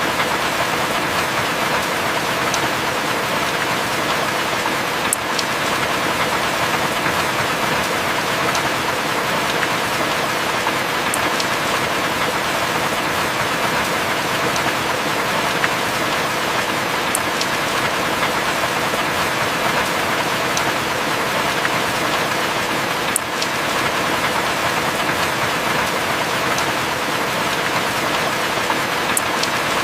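Heavy rain falling steadily, a constant even hiss with a few faint sharp ticks scattered through it.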